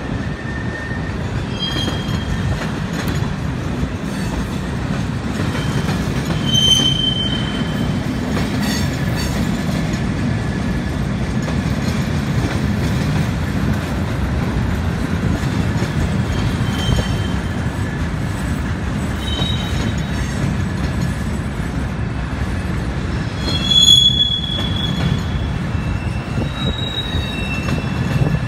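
Freight cars of two trains rolling past on side-by-side tracks: a steady low rumble of steel wheels on rail, with short high-pitched wheel squeals several times, the loudest about 24 seconds in.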